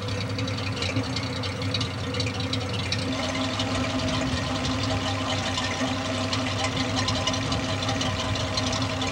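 1936 Rolls-Royce 25/30's straight-six engine idling steadily, its exhaust in need of a new muffler.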